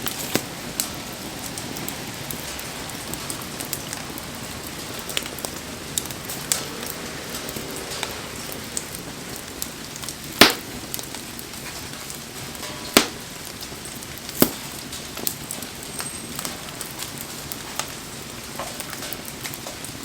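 Wood fire crackling, with sharp pops of burning wood, the loudest about halfway through and twice more a few seconds later, over a steady hiss of falling rain.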